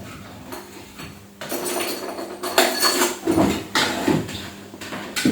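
Irregular knocks and clattering of hard objects being handled, with a faint steady hum underneath.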